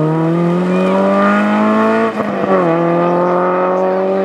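Renault Clio rally car's engine accelerating hard, its pitch rising steadily. About two seconds in the revs drop sharply at an upshift, then climb again more slowly in the next gear.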